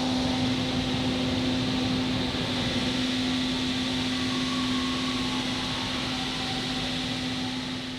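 Industrial machinery running steadily, with a constant hum over a broad mechanical noise.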